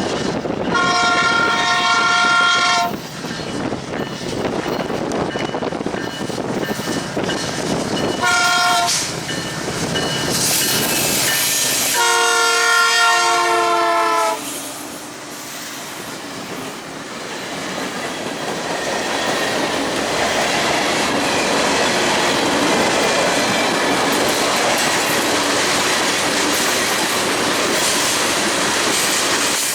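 Norfolk Southern freight train led by an SD70ACe locomotive sounding its horn: a long blast, a short one, then a long one whose pitch drops as the locomotive passes. Then the freight cars roll by steadily, wheels clacking over the rail joints.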